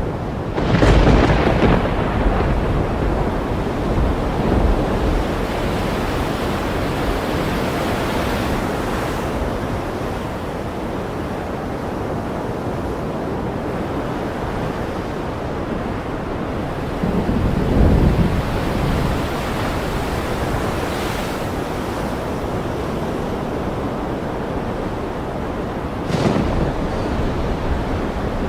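Thunderstorm over steady ocean surf: a continuous wash of waves and wind, with a sharp thunderclap about a second in, a low rumble of thunder about two-thirds of the way through, and another crack near the end.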